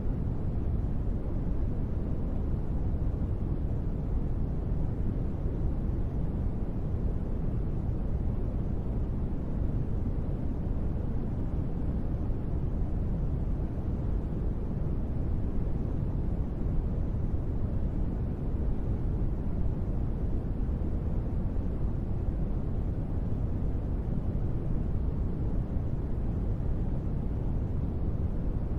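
Steady noise of a sleep track, a deep, even rush heavier in the low range than in the high, with no changes in level.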